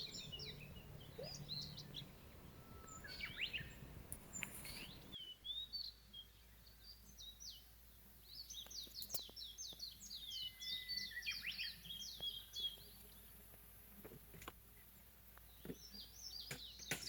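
Small songbirds singing outdoors: quick runs of high chirps in several bursts, faint against a quiet background.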